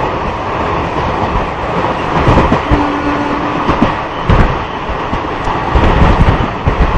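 Passenger train running at speed, heard from an open coach doorway: a steady rush of wheels and wind with irregular heavy thumps of the wheels over rail joints. A short steady tone rises above it for about a second, around three seconds in.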